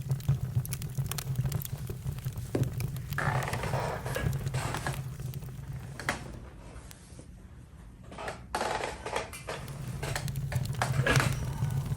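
Campfire crackling and popping in irregular sharp snaps, with brief bursts of hiss and a low steady rumble that drops away for a few seconds in the middle.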